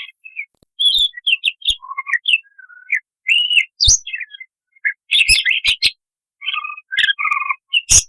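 Budgerigar singing an active warbling song: an irregular run of short chirps, whistles and sharp clicks with brief pauses, a few notes sliding up or down in pitch.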